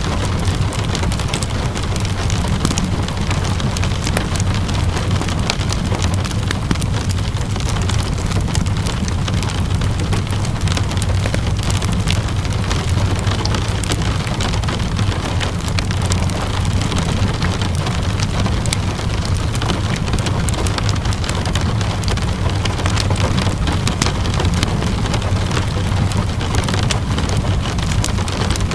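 Ambient mix of steady rainfall and a crackling fireplace: an even hiss of rain over a constant low rumble, dotted with many small, sharp crackles.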